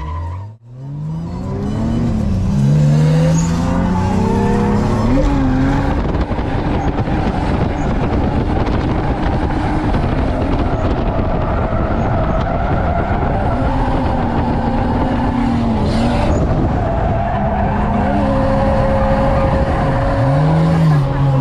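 Drift car's engine revving hard, its pitch rising and falling again and again as the throttle is worked, over tyres squealing and skidding through a drift. The engine cuts out briefly about half a second in, then climbs back up.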